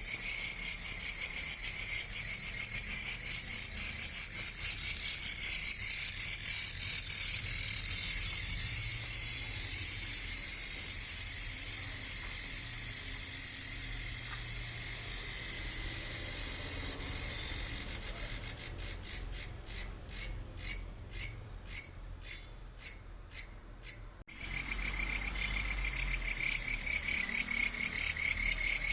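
Cricket chirping: a continuous, high-pitched rapid trill. About two-thirds of the way through it breaks into separate pulses, two or three a second, then restarts abruptly as a steady trill near the end.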